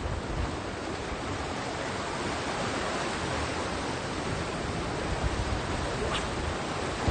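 Steady rush of sea surf breaking on the shore, mixed with wind on the microphone.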